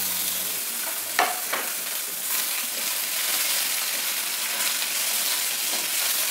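Chopped tomatoes and onions sizzling steadily in hot oil in a nonstick frying pan while being stirred with a wooden spatula. There are a couple of short knocks about a second in.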